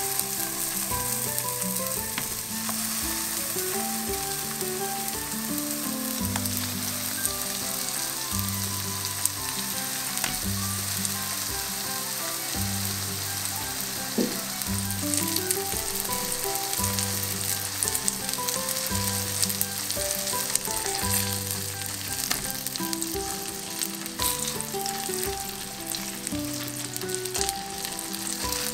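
Ground-beef hamburger patties sizzling in hot oil in a frying pan: a steady hiss with scattered small pops and crackles. Soft background music with a slow, stepping bass runs underneath.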